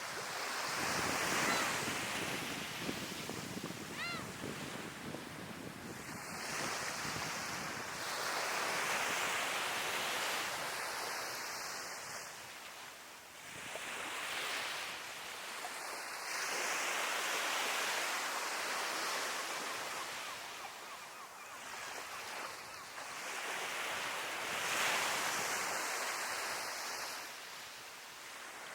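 Sea waves breaking and washing up a beach, the surf swelling and easing in turn about every eight seconds.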